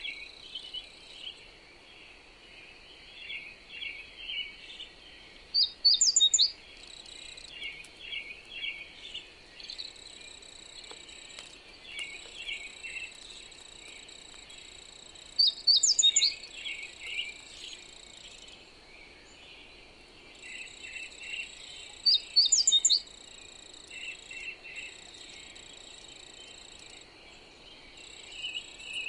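Birds singing: many soft chirps throughout, and three times a loud, bright phrase of quick rising notes. Under them runs a steady high-pitched insect drone, with a faint hiss of wind.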